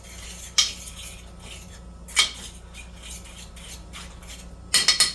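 A metal utensil clinking against a cooking pot: a sharp knock about half a second in, another about two seconds in, then a quick run of clinks near the end.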